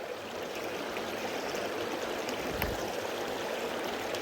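Creek water running steadily, a constant rushing wash, with one brief soft tap about two and a half seconds in.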